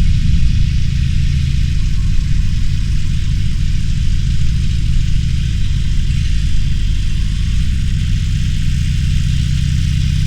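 Harley-Davidson Roadster's V-twin engine running at low revs with an even, deep throb, heard from on the motorcycle.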